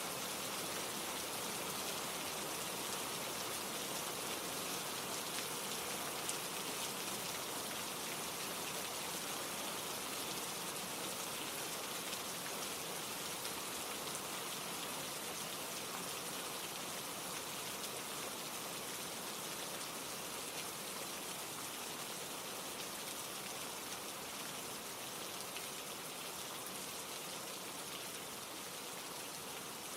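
Steady rain falling: an even hiss of countless drops, easing slightly quieter toward the end.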